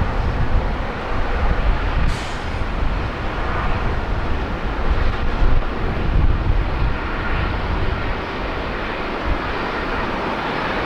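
Rolls-Royce Trent 1000 engines of a departing Boeing 787-9 as a steady, distant jet roar, with strong wind buffeting the microphone.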